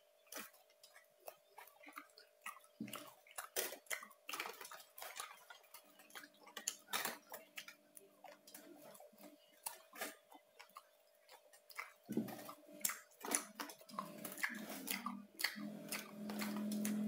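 Close-up chewing of crispy-skinned Bangka roast pork (saucu): a stream of irregular sharp crunches and wet mouth clicks.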